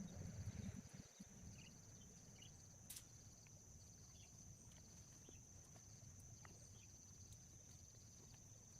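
Near silence, with a faint steady high-pitched insect trill, like a cricket's, running throughout. There is a soft rumble in the first second, and a single sharp click about three seconds in.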